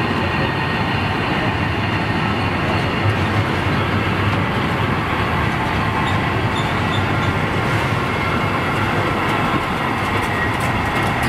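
Freight train of covered sliding-wall bogie wagons rolling past close by: a steady rumble of steel wheels on rail, with faint thin high squeals from the wheels over it and a few sharp clicks near the end.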